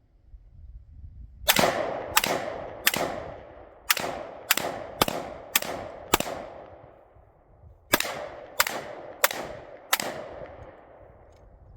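Gunshots from a firearm at target practice: twelve shots in three quick strings of three, five and four, each shot followed by a ringing echo.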